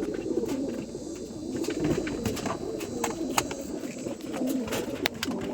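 White homing pigeons cooing continuously, low and throaty, with scattered sharp clicks.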